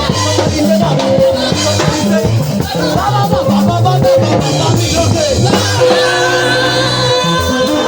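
Live church praise music: a band with a bouncing bass line, keyboard, shaker percussion and singing.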